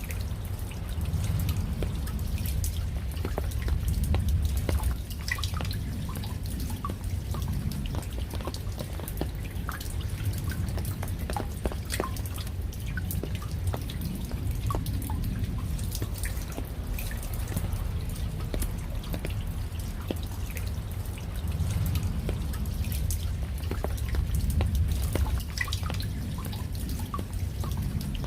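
Raindrops dripping and pattering in scattered separate drops, over a low rumble that swells and eases every several seconds.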